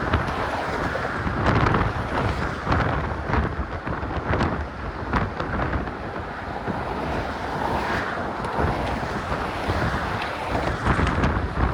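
Strong wind buffeting a cell phone's microphone, a rumbling noise that swells and drops in gusts with frequent brief blasts.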